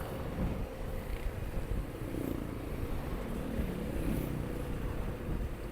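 Motorcycle engine running steadily while under way, a low rumble with a constant hum, picked up by the rider's action camera.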